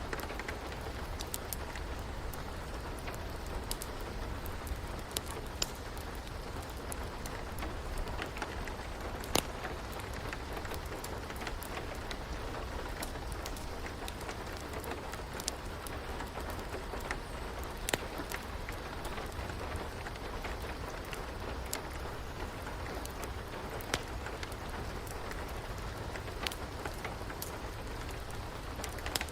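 Steady rain with irregular sharp crackles and pops from a wood fire in a fireplace, a few of them louder than the rest.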